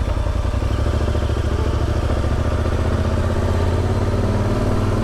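Motorcycle engine running steadily at low revs, its pitch shifting slightly near the end.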